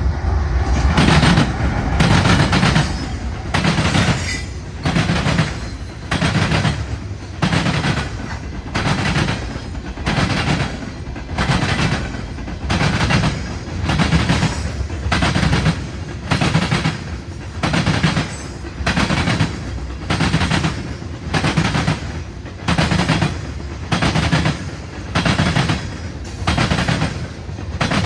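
Freight cars rolling past, their wheels clattering over a joint in the track in a steady rhythm of about one heavy clack-clack every 0.8 seconds, over a continuous low rumble.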